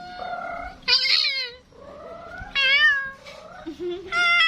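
A bird giving three loud calls about a second and a half apart, each sliding down in pitch, after a short held note at the start.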